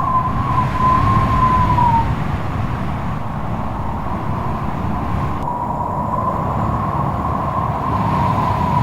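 Strong wind blowing hard, a heavy low rush with a whistling howl that wavers in pitch. The howl dips and fades about two seconds in, then comes back a little past halfway.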